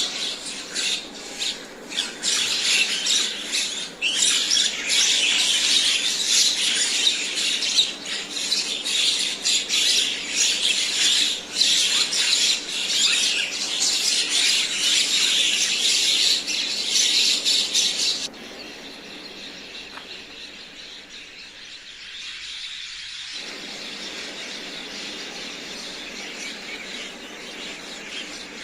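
Common mynas calling with a dense mix of squawks and chattering, loud for about the first two-thirds. Then the sound cuts off abruptly, leaving fainter, steady bird chirping.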